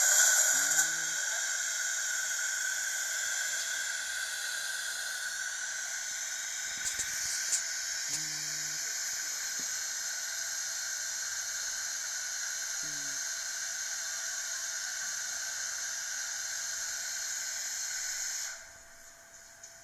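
WashTec automatic car wash machine hissing steadily as it sprays, starting with a loud burst and cutting off suddenly near the end.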